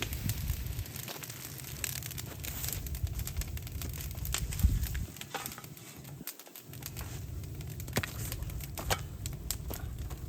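A bamboo bonfire burning, with irregular crackles and sharp pops over a low rumble.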